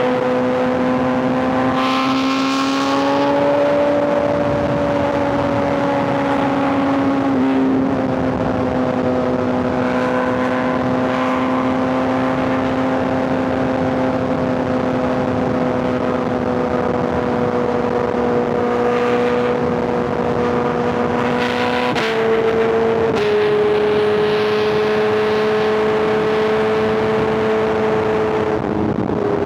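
Superbike's inline-four engine running at steady cruising revs under way, with a rush of riding noise. The pitch rises slightly early on, then drops in two small steps, about a quarter of the way in and about three-quarters in, as it shifts up a gear.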